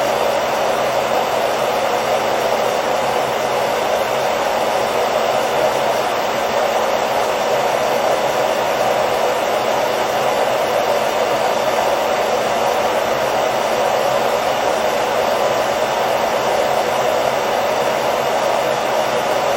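Hair dryer running steadily, a constant airy whoosh with a faint motor hum underneath, played as continuous white noise for lulling a baby to sleep.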